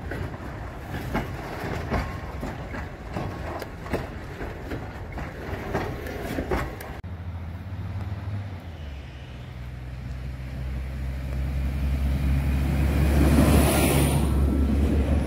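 Loaded container freight wagons clattering past, their wheels knocking over the rail joints. About seven seconds in this gives way to the steady low drone of an SA139 diesel railcar's engine, growing louder as the unit draws close.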